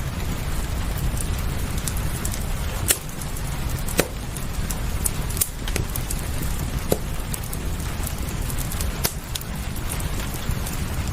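Wood fire crackling, with irregular sharp pops, the loudest about three and four seconds in, over a steady rain hiss and low rumble.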